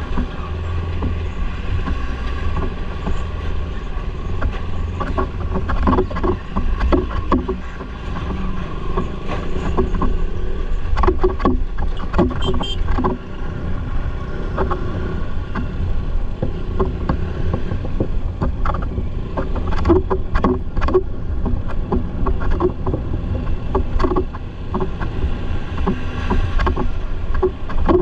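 Motorcycle riding along a road: its engine runs steadily under heavy wind rumble on the microphone, with frequent short knocks and rattles.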